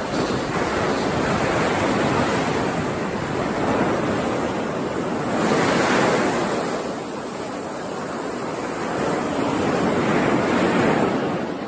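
Ocean surf washing onto a shore: three swells of breaking waves about four seconds apart, the middle one the loudest.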